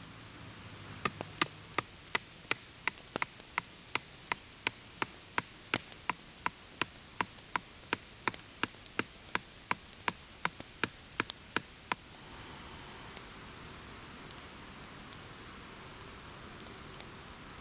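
A blade chopping at wood in quick, even strokes, about three a second, stopping after about eleven seconds; a steady hiss follows.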